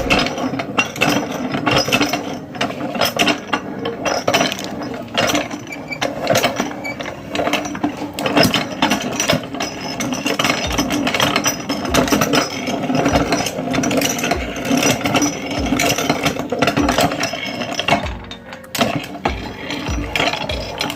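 Meat grinder grinding, a dense run of sharp cracking clicks over a steady hum, with a brief letup about three-quarters of the way through.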